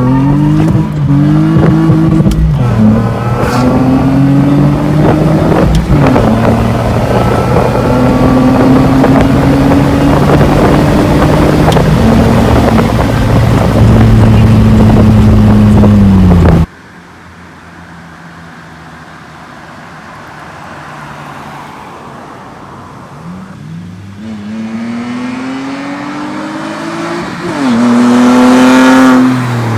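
BMW E46 with a custom exhaust, accelerating hard through the gears: the engine note climbs and drops back at each shift. About halfway through the sound cuts abruptly to a quieter engine, which builds into another hard acceleration near the end and then falls away.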